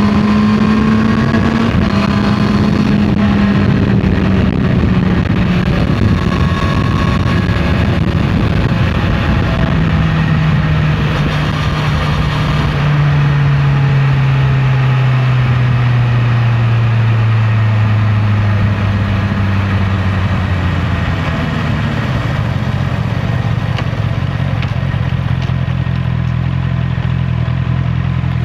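Honda CB650R's inline-four engine running on the road. The engine note drops about a third of the way in and keeps falling slowly as the bike slows, then holds steady at a lower pitch near the end.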